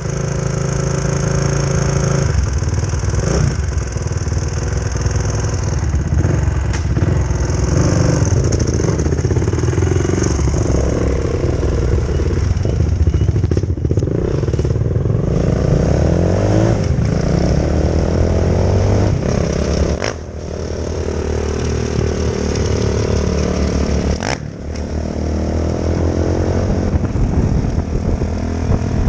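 2004 Honda CRF450R dirt bike's single-cylinder four-stroke engine running, its revs rising and falling, with two brief drops in the second half.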